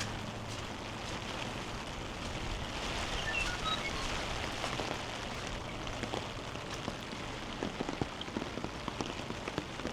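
Heavy rain falling steadily, with a few short high chirps about three seconds in and sharper close drips and patters near the end.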